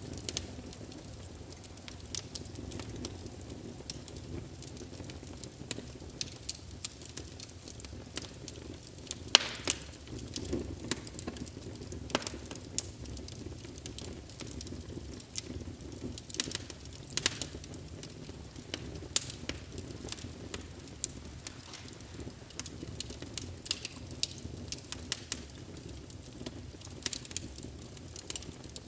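Wood fire burning in a fireplace: irregular crackling with scattered sharp pops over a low steady rumble of the flames.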